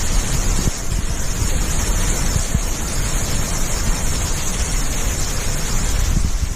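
Strong wind buffeting the microphone: a steady rushing noise with a low, gusty rumble underneath.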